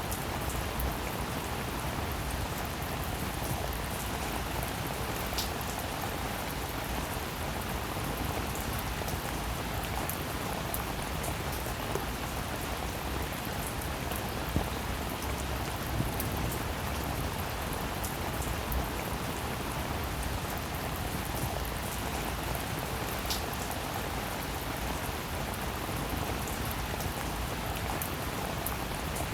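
Steady rainfall, an even hiss of rain with individual drops ticking through it and a few louder drop hits near the middle.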